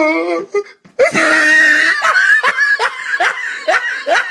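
A wavering voice trails off, then a high shriek about a second in breaks into hard, rapid laughter, short 'ha' bursts repeating about two to three times a second.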